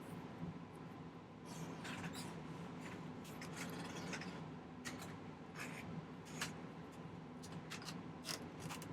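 Faint, scattered small clicks and scrapes of metal tools handling a sterling silver chain on the bench, over a steady low hum.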